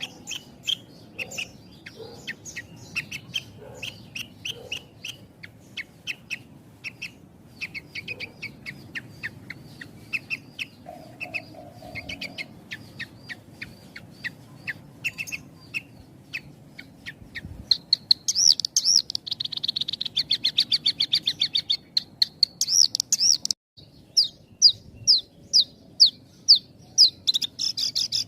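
Javan bush lark (branjangan) singing: a long run of short, sharp chirps with tight gaps, which about two-thirds of the way through turns into faster, higher trilling notes, broken by a brief drop-out near the end.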